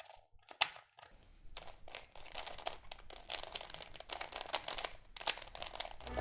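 Plastic being handled: two sharp clicks, then a few seconds of dense, rapid crackling and crinkling that stops shortly before the end.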